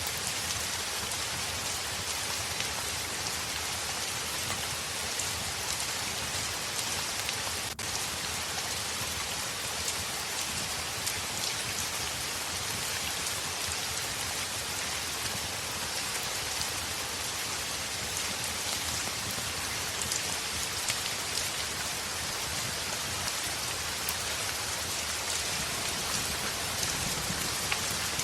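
Heavy rain falling steadily, a dense even hiss with scattered faint ticks of individual drops. There is a momentary dip in the sound about eight seconds in.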